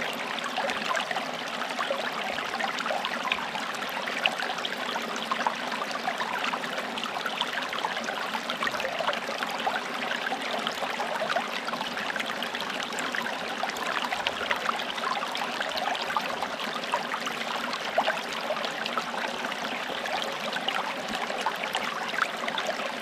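Small forest stream running steadily over stones, with continuous burbling and trickling and small splashes throughout.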